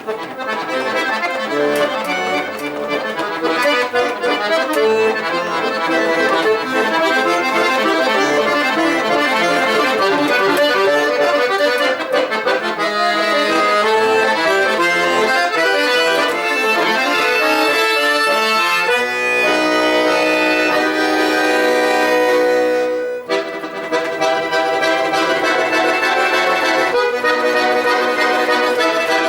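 Solo accordion playing fast, dense runs. About two-thirds of the way through it settles into sustained chords, breaks off briefly, then resumes.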